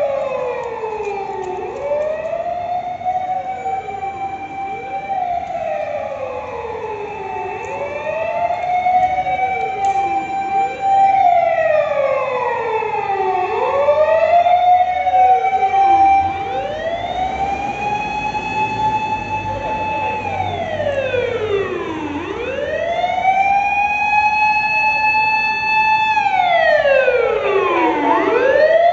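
Japanese fire engine sirens wailing, several at once and out of step: each rises, holds its pitch, then falls, repeating every few seconds, with slower, longer wails in the second half. A low truck engine rumble runs underneath.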